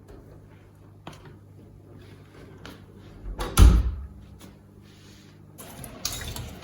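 A few light clicks and knocks and one heavier thump about three and a half seconds in, like a cupboard or door closing, over a faint steady low hum; more clatter starts near the end.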